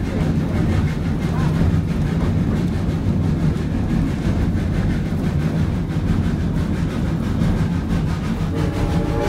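Steady rumble of a narrow-gauge steam train climbing a grade, heard from the train. Near the end the whistle of the 1926 Baldwin 2-8-0 locomotive starts to blow, a chord of several steady tones.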